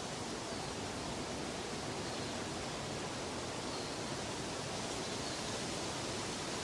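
Steady, even rushing noise, spread from a deep rumble up to a high hiss, with no change in level.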